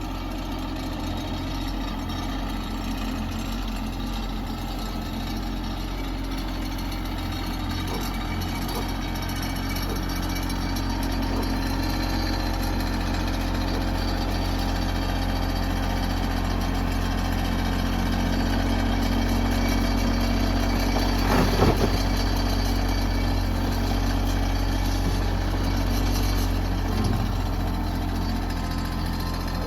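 Tractor engine running steadily, growing slightly louder toward the middle, with a brief louder noise about two-thirds of the way through.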